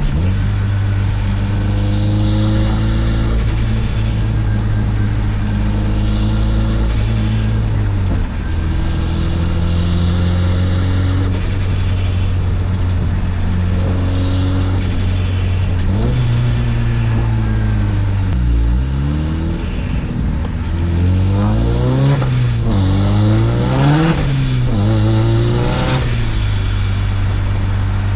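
Mazdaspeed 3's turbocharged 2.3-litre four-cylinder running at a steady engine speed, with short hissing bursts every few seconds. From a little past halfway it is revved up and down several times in quick succession, and the vent-to-atmosphere HKS blow-off valve, its fins removed, flutters and hisses as the throttle shuts.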